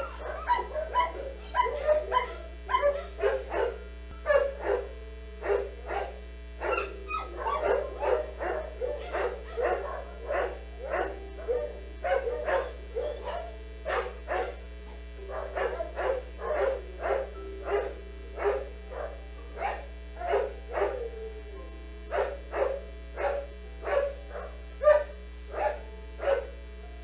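Dog barking over and over, short sharp barks about two a second with brief pauses, over a steady low electrical hum.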